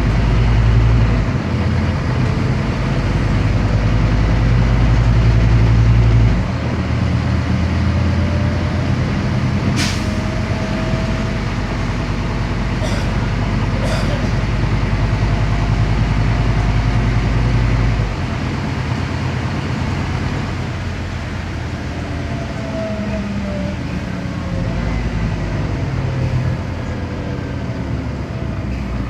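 Scania CN270UB city bus's diesel engine running under way, heard from inside the bus: a steady low drone whose note and loudness change in steps about a second in, around six seconds in and around eighteen seconds in. There are a few sharp clicks near the middle.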